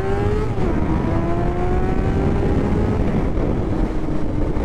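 Honda CBR600F's inline-four engine accelerating, its pitch dropping sharply about half a second in as it shifts up a gear, then climbing slowly again and easing off near the end. Heavy wind noise rumbles on the microphone throughout.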